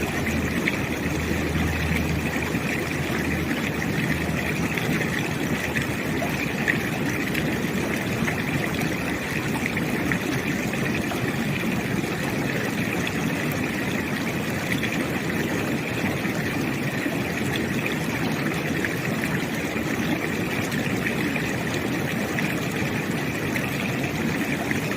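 Steady rush of a river's flowing water with a mild, steady hum of road traffic beneath it. A deeper low rumble stands out in the first couple of seconds.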